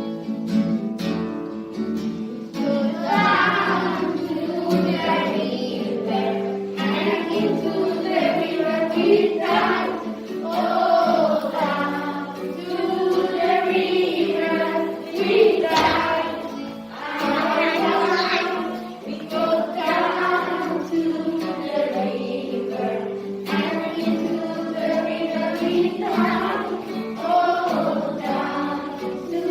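A children's choir singing a song in English to a guitar accompaniment, which is strummed alone for about the first two and a half seconds before the voices come in.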